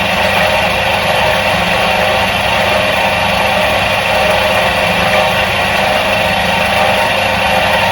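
Electric motor of a 1977 Soviet washing machine running steadily, giving an even, unchanging hum.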